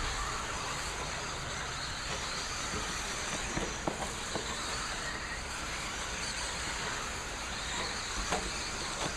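A pack of radio-controlled stock-class racing trucks running laps: a steady mix of motor whine and tyre noise, with a few sharp knocks about four seconds in and again near the end.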